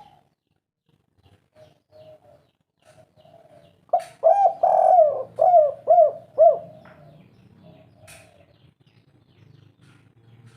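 Spotted dove (tekukur) cooing its 'kuk 3' call. Faint short coos come first; about four seconds in, one loud phrase of about five rounded notes follows, then faint notes again.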